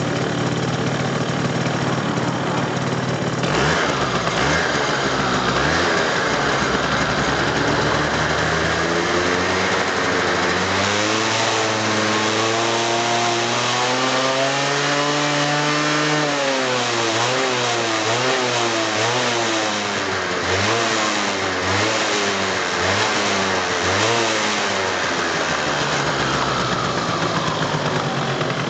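Yamaha Axis 90 scooter's small two-stroke engine running. It idles, then is revved up slowly to a peak about halfway and let back down. A string of quick throttle blips follows before it settles back to idle near the end.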